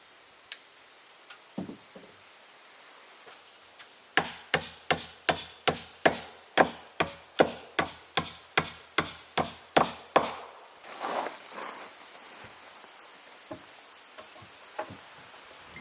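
A hand tool striking wood in a steady run of about sixteen blows, roughly two and a half a second, each with a faint ring, followed by a brief rustle.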